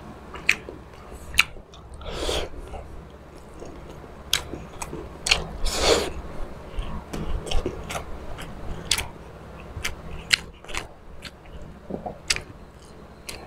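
Close-miked mouth sounds of a person eating squid adobo with his hands: chewing with sharp wet smacks and clicks of the lips and tongue, and twice a longer slurp, about two seconds in and again near the middle.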